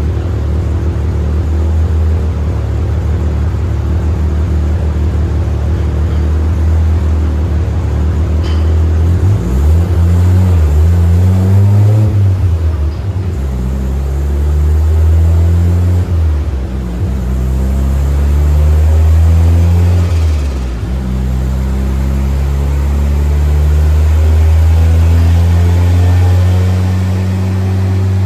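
Car engine running on a chassis dyno: steady at first, then revving in rising sweeps that cut back sharply three times before a last long rise.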